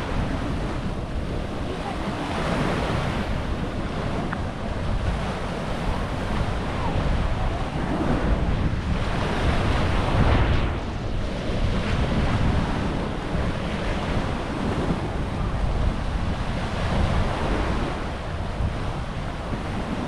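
Small waves washing onto a sandy beach, swelling and easing every few seconds, with wind buffeting the microphone.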